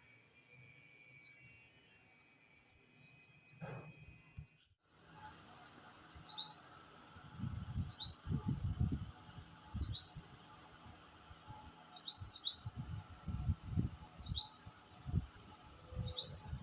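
A bird giving short, sharp, high chip notes, each sweeping down in pitch: two early, then a steady run of about one a second. Irregular low rumbling bumps sound under the later chips.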